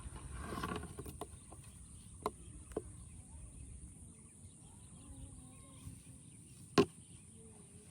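Outdoor background with a steady high hiss, a short noisy burst in the first second, then a few sharp clicks or knocks, the loudest one about seven seconds in.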